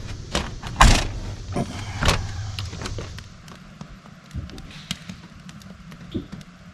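Knocks and clatter of someone climbing out of a pop-up truck camper: a loud knock about a second in, another about two seconds in, then scattered light clicks.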